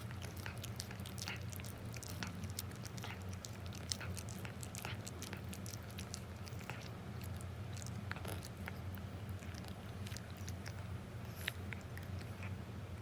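Elderly cat eating: a run of small, irregular wet chewing clicks, over a steady low hum.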